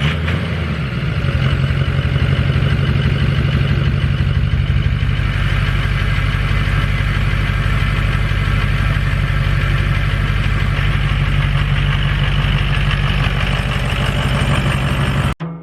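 Lifted pickup truck's engine idling steadily just after a cold start, then cutting off suddenly near the end.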